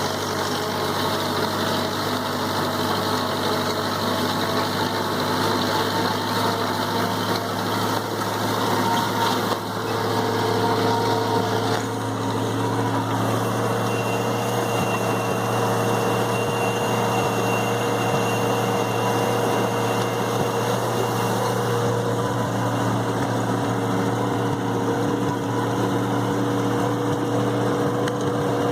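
Massey Ferguson 165 tractor's gas engine running steadily under load while driving a two-wheel hay tedder; the engine note shifts about ten seconds in and then holds steady.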